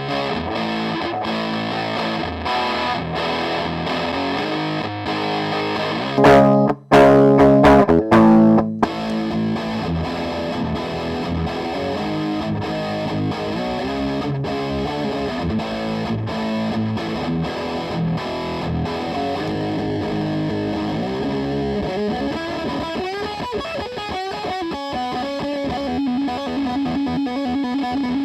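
Electric guitar played with heavy distortion through a Marshall Valvestate 80-watt amp: riffs and single notes, with a louder burst of chords about six to nine seconds in, ending on a held note with vibrato.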